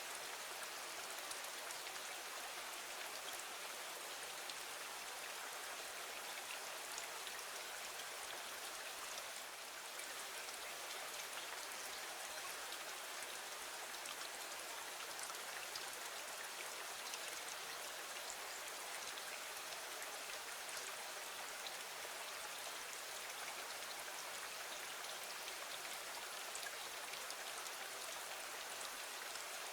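Steady, gentle rain on a window: an even hiss of fine drops with scattered small ticks of single drops, unchanging throughout.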